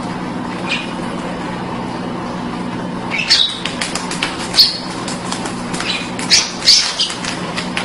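Pet birds giving short, sharp chirps and squawks, about half a dozen scattered calls, most of them in the second half, over a steady low hum.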